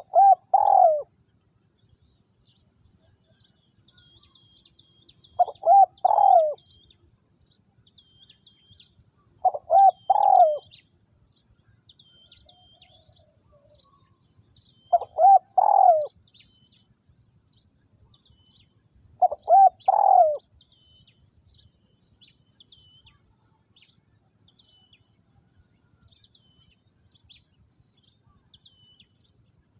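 A spotted dove, a captive decoy bird, cooing its short multi-note call five times, one phrase about every four to five seconds, with a longer pause near the end. Small birds chirp faintly and high-pitched throughout.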